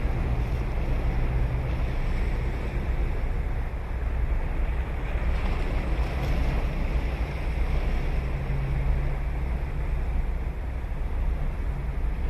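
Ocean waves breaking and washing onto the beach: a steady rush of surf with a deep rumble underneath.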